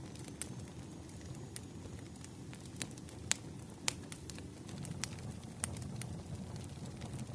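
Campfire burning, with a steady low rumble of the flames and irregular sharp crackles and pops, the two loudest about three and four seconds in.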